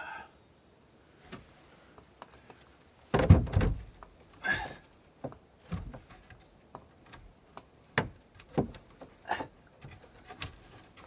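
Irregular wooden knocks and thuds as a log and timber are handled and set in place, with one heavy thud a little over three seconds in.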